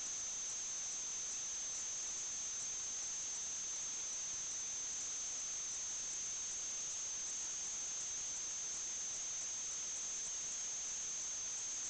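Steady electronic hiss with a constant high-pitched whine, unchanging throughout: noise on the inspection recording's audio line.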